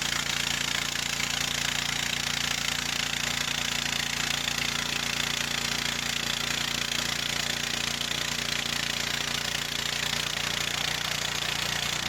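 Harbor Freight gas-engine band sawmill running steadily, its engine's tone under an even hiss of the blade sawing through a log.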